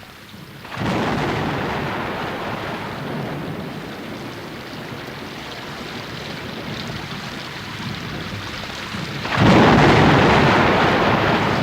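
Two rolls of thunder over rain. The first breaks about a second in and slowly fades; the second, louder, breaks near the end.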